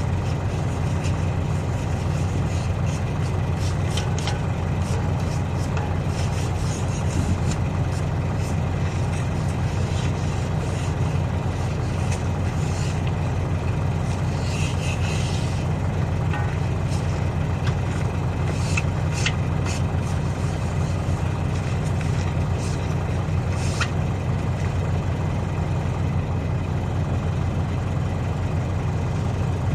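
Heavy engine idling steadily, with scattered faint clicks and taps over it.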